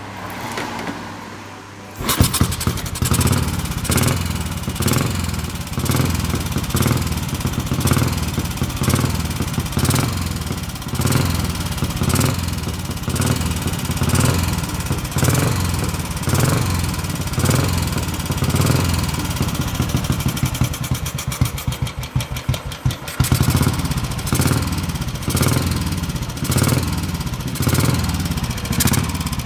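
Royal Enfield Bullet 350's single-cylinder engine catching on the kick about two seconds in, then running cold on choke with an even beat. About two-thirds of the way through the beat briefly quickens and the level dips before it settles again.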